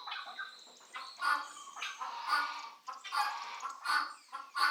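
Domestic chickens clucking, a run of short calls about once a second.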